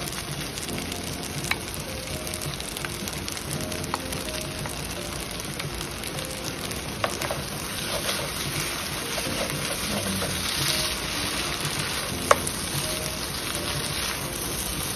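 Pad thai with fresh shrimp sizzling steadily in a frying pan. Occasional sharp knocks come from a wooden spatula striking the pan as the noodles are stirred, the sharpest one late on.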